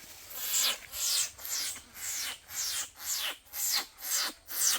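Rhythmic rasping swishes, about two a second, each sweeping downward in pitch.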